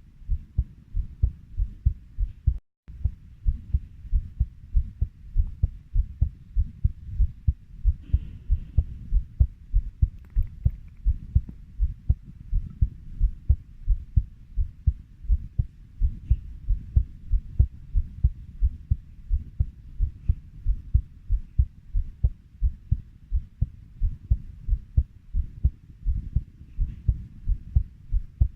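Heartbeat at 90 beats per minute: steady, evenly spaced low double thuds (lub-dub), with a very brief break about three seconds in.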